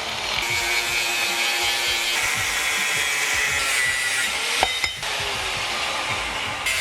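Power tool grinding metal, a dense rasping noise with a shifting whine. The sound changes abruptly about two-thirds of the way in, where clips are joined.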